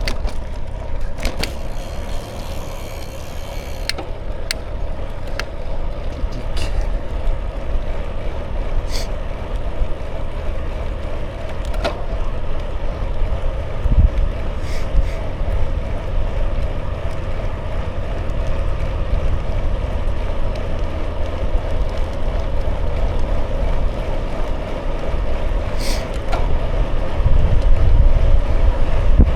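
Bicycle on the move: wind buffeting the microphone with a low rumble, over steady tyre rolling noise and occasional small clicks and rattles from the bike. The wind rumble grows stronger near the end.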